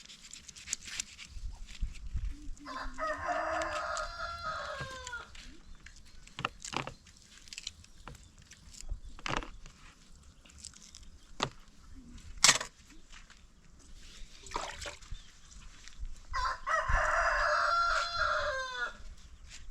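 A rooster crowing twice, each crow about two seconds long and falling away at its end, the second coming some fourteen seconds after the first. Scattered clicks and one sharp knock in between.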